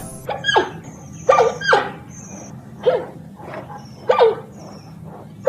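A dog barking: about five short barks, each dropping in pitch.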